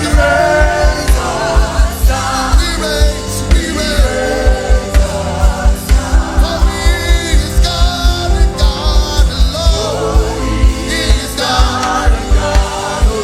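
Gospel worship music: sung vocals over a band with a fast, steady bass beat.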